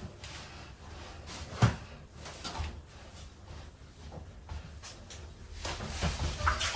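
Scattered knocks and handling thumps in a small room, with one sharp thump about a second and a half in and a busier cluster of knocks near the end.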